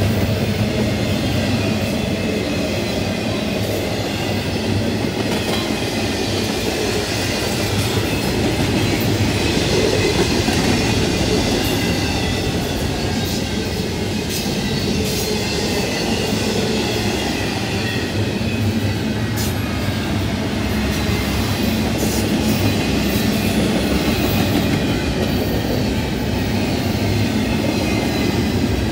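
Double-stack intermodal well cars of a long freight train rolling past close by: a steady rumble of steel wheels on rail, with occasional sharp clicks and a faint, thin, high wheel squeal.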